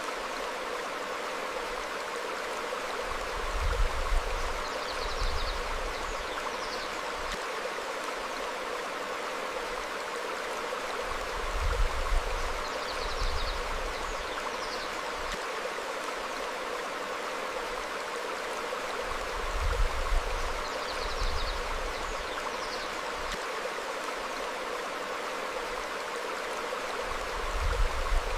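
Stream flowing steadily over rocks, with faint short bird chirps. A low rumbling swell rises about every eight seconds, the loudest moments: about four seconds in, twelve, twenty and near the end.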